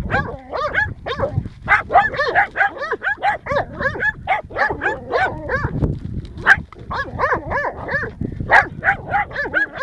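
Dog barking rapidly and without pause at a turtle it has tracked down and bayed up in a field.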